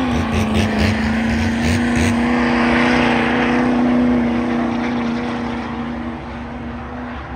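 A car engine held at a steady high rev, one sustained note after climbing just before. A rushing noise swells and fades in the middle, and the sound eases off a little near the end.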